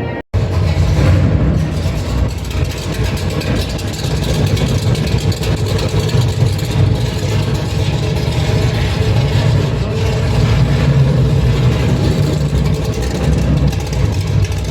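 A car engine running loudly with a deep, rough sound that stays steady throughout.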